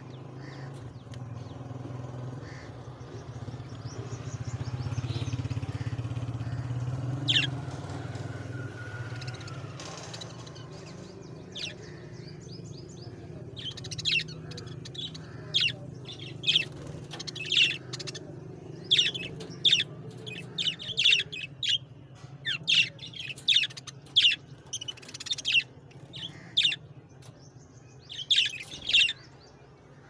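Small aviary birds chirping: short, sharp calls, a few at first, then coming about once a second or faster through the second half. A steady low hum runs underneath.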